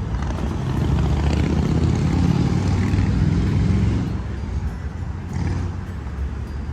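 A motor vehicle's engine rumbling as it passes, swelling about a second in, staying loud for a few seconds, then easing off.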